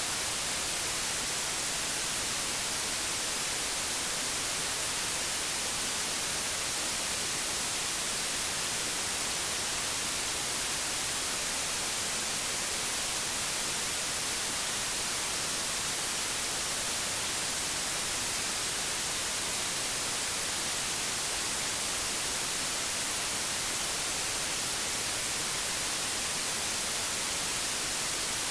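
Steady hiss of analog television static (white noise), even and unbroken, brightest in the high frequencies.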